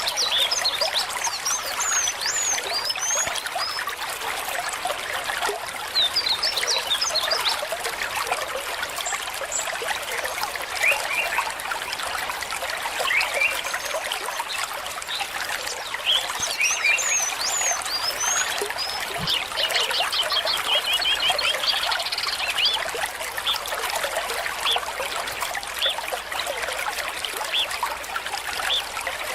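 A small stream trickling and babbling steadily, with short chirping bird calls coming and going over it and a quick trill about two-thirds of the way through.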